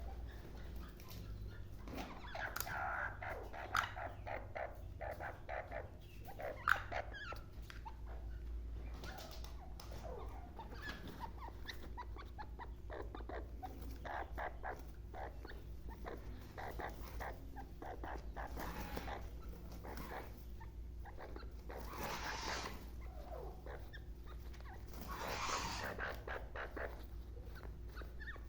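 Black francolin giving a few harsh, rasping calls, about three seconds in and twice near the end, over a steady low hum and scattered faint clicks.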